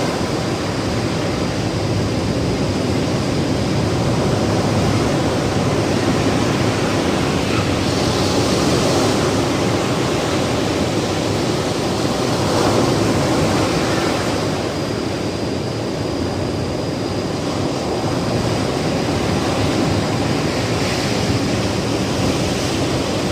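Ocean surf breaking and washing up on a beach: a steady rush that swells a little in loudness a few times as waves come in.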